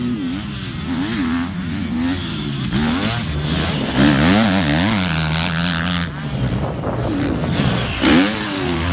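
Motocross bike engine revving hard, its pitch climbing and dropping back again and again as the rider works the throttle and gears, loudest about four seconds in and again near the end.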